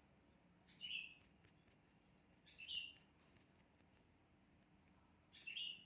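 A bird calling: a short two-part chirp repeated three times, about two to three seconds apart, over a faint low background hum.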